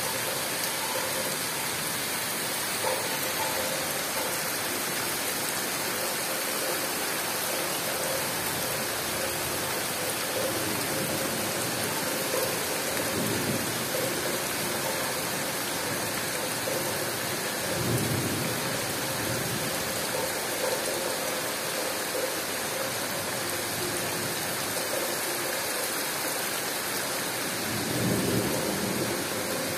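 Heavy tropical downpour falling steadily on rainforest foliage and ground, an even hiss throughout. Three short low rumbles break through it, about halfway through, a little later, and near the end.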